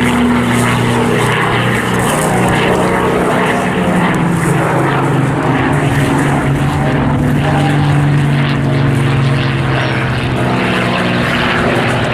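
Piston-engined warbirds, a Spitfire and a Mustang, flying past with a steady, loud propeller-engine drone whose pitch slowly shifts as they move.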